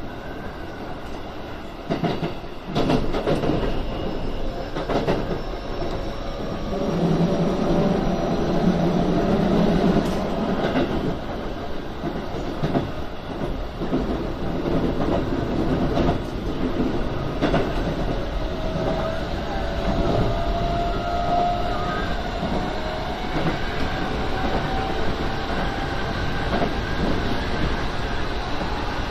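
Keikyu 1000 series electric train running at speed, heard from inside the front of the train: a steady rumble with wheels clacking over rail joints and points. A louder low rumble comes a quarter of the way in, and a faint rising whine near two-thirds through.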